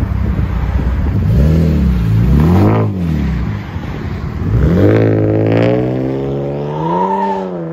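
2013 Jeep Grand Cherokee's 3.6L V6 running through a custom Vibrant-muffler exhaust with the resonator deleted: it idles, then two short revs, a longer rise in revs that slowly eases off, and a small blip near the end.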